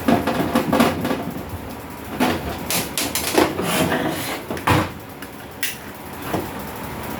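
Irregular knocks, clicks and clatter of hands and tools working on an amplifier on a workbench, a dozen or so sharp strikes with short scraping stretches between.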